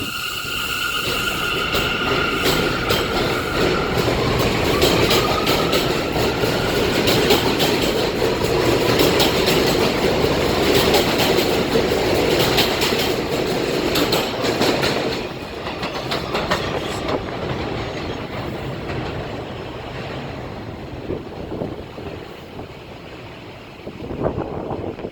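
New York City subway train on the elevated BMT Jamaica Line running past the platform. High steady wheel squeal and a rising motor whine come in the first few seconds, then a loud, fast clatter of wheels over rail joints that fades after about fifteen seconds.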